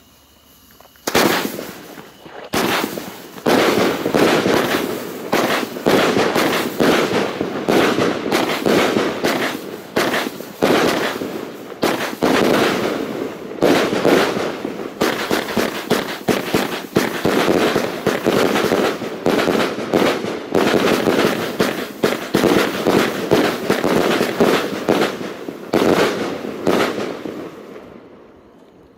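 A 36-shot 25 mm fireworks cake firing. A first shot comes about a second in, then shots launch and burst in quick succession with loud titanium reports and crackle between them, and the volley dies away near the end.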